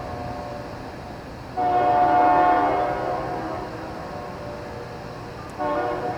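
Diesel locomotive's air horn blowing: one long blast of a multi-note chord, then a second blast starting near the end.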